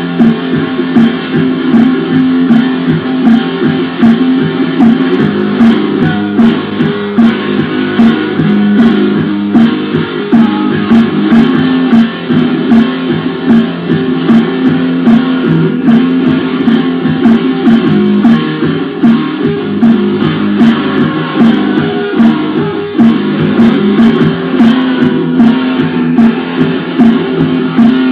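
Black metal music, a lo-fi demo recording: dense, steady distorted electric guitar and bass, with sharp hits recurring at an even pace throughout.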